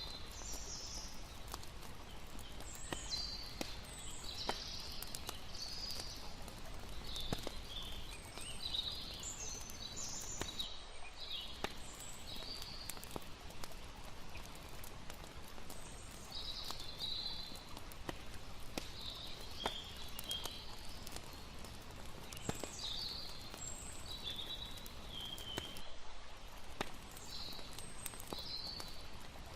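Layered campfire-and-water night ambience: a campfire crackling with sharp pops every second or so, scattered high chirping calls of night creatures, over a steady low rush of water.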